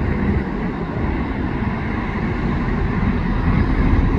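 Train passing, a steady low rumble that grows slightly louder.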